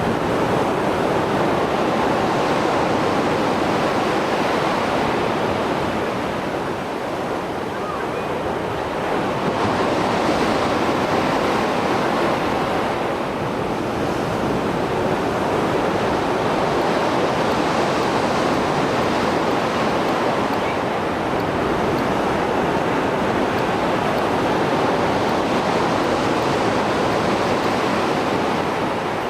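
Mediterranean Sea waves breaking and washing ashore, a continuous surf that swells and eases every several seconds, in rough water after a storm.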